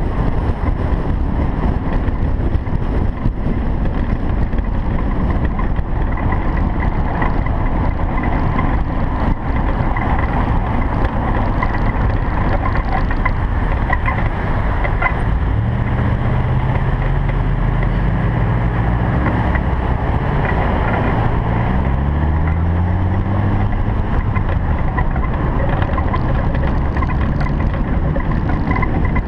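Single-turbo Toyota Supra under way, its engine and wind noise making a steady loud rush; about two-thirds of the way in the engine note rises as it revs up.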